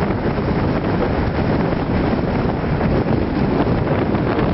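Strong gusting wind buffeting the microphone, a heavy steady rumble.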